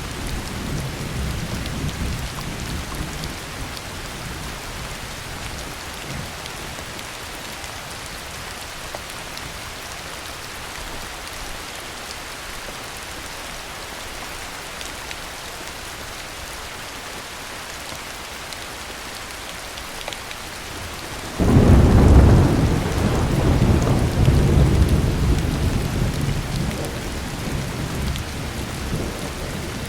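Heavy rain falling steadily, with thunder. A low rumble dies away over the first few seconds, then about two-thirds of the way through a sudden loud thunderclap breaks and rolls on in waves for several seconds before fading.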